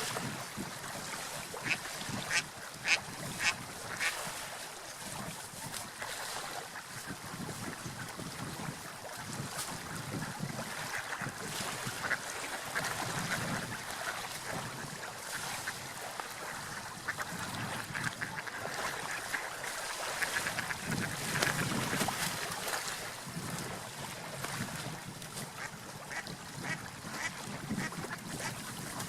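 Ducks quacking, a flock calling on and off over a steady background of water and wind.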